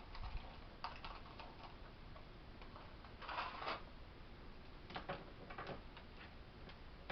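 Faint, scattered light clicks of metal bolts and nuts being picked up and handled, with a brief scraping rustle about three seconds in.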